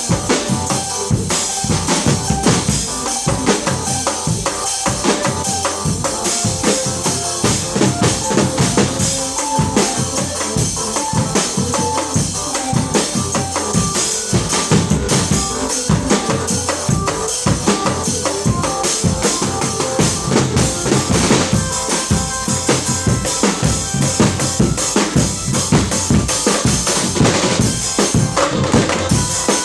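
Loud percussion-led music with drums and a bass drum beating a fast, steady rhythm under a short repeating melody.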